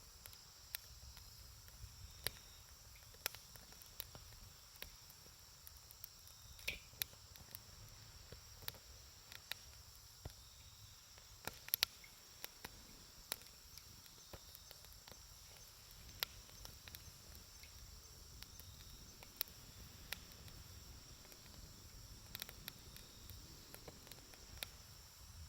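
Campfire burning, the wood crackling with sharp, irregular pops about one or two a second, a few louder snaps among them. A steady high-pitched insect chorus, like crickets, runs underneath.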